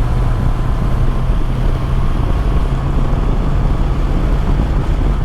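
Honda CB650R's inline-four engine running steadily at motorway speed, under a constant rush of wind and wet road noise, heard through a microphone inside the rider's helmet.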